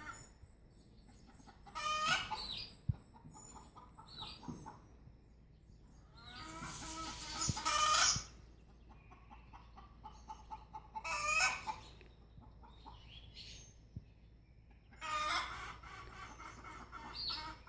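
Rooster crowing four times, with chickens clucking in short repeated notes between the crows.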